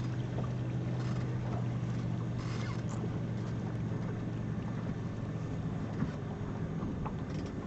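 A boat's engine hums steadily at a low pitch under wind and water noise. The hum weakens about five seconds in.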